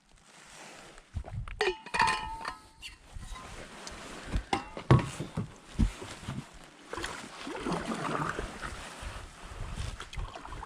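A canoe being paddled: water washing with irregular knocks and thumps against the hull, and a short pitched squeak about two seconds in.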